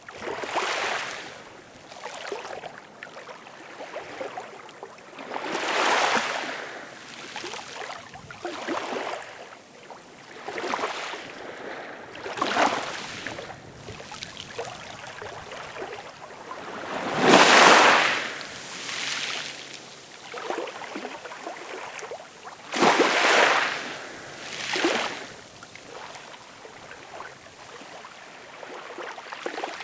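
Ocean waves breaking and washing in, a swell of surf hiss every few seconds that rises and falls away. The biggest wave breaks a little past halfway, and another strong one follows about five seconds later.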